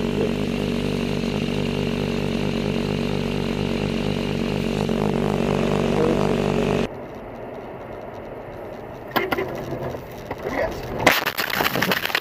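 Vehicle engine running steadily at an even pitch for about seven seconds, then a sudden cut to quieter road noise with a few sharp knocks, the loudest about eleven seconds in.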